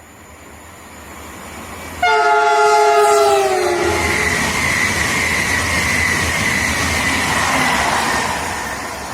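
A passenger train approaching and passing at speed, sounding its horn about 2 seconds in: one chord-like blast of about a second and a half that drops in pitch at its end. The loud rush of the passing train follows, with a high whine that slowly falls, fading near the end.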